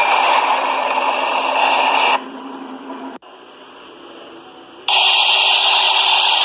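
Steady rushing noise of a train running, cut off abruptly to a much quieter stretch about two seconds in and coming back just as suddenly near five seconds.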